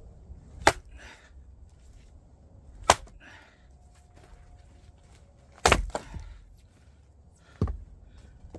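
An axe striking firewood rounds to split them: four sharp, loud chops a couple of seconds apart, the third followed closely by a second knock.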